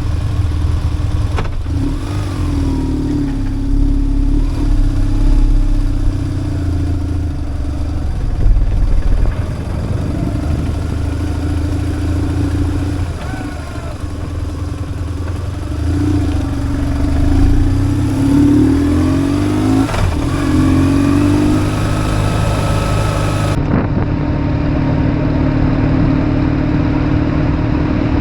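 BMW R1150GS motorcycle engine running under way, its revs rising and falling.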